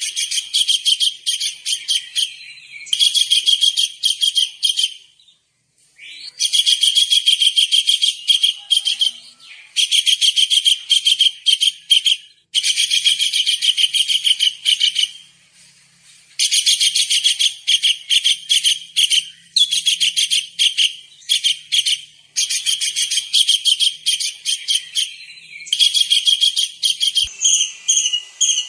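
Tengkek udang (small kingfisher) calling: bouts of rapid, shrill, high-pitched chattering notes, each bout one to a few seconds long with short pauses between them. Near the end the notes turn smoother and more whistled.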